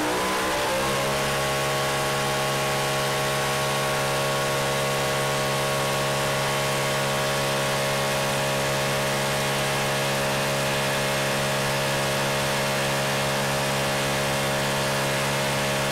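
BMW M3 engine running on a test bench: its revs climb for about the first second, then it holds a steady, even speed under sustained running, hot enough that the exhaust headers glow red.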